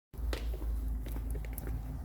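A low steady rumble with scattered light clicks and knocks, cutting in suddenly just after the start.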